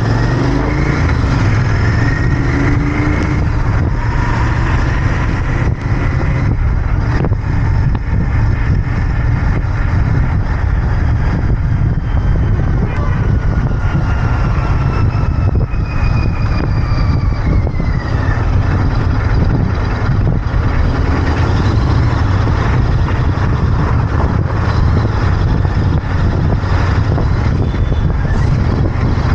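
Royal Enfield Interceptor 650's parallel-twin engine running steadily under way, with wind and road rush, amid passing traffic.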